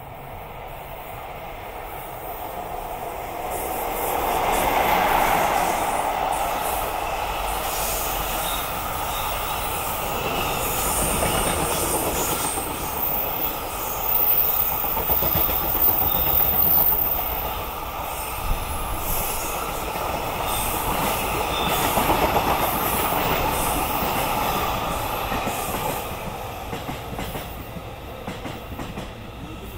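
A JR Freight train hauled by an EF66 electric locomotive runs through the station: a long rumbling pass with wheels clattering over rail joints and some high wheel squeal partway through, building up over the first few seconds and easing off near the end.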